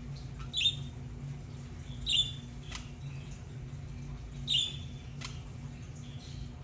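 Budgerigars calling: three short, loud squawking chirps a second or two apart, with a couple of sharp clicks between them over a steady low hum.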